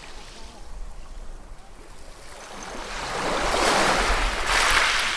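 Ocean waves breaking on a shore: a wave swells about two and a half seconds in and breaks loudest near the end, then falls away.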